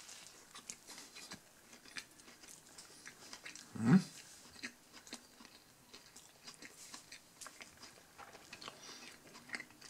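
A person chewing a mouthful of chili cheeseburger: soft, wet mouth sounds and small clicks, with a brief, louder low voice sound about four seconds in.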